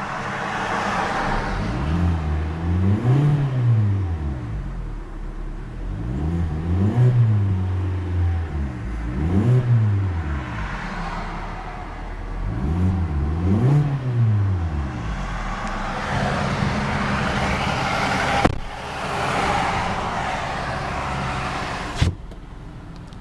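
2011 Hyundai Elantra's 1.8-litre four-cylinder engine revved four times, each rev climbing and falling back, then idling steadily. Two sharp clicks come in the last few seconds.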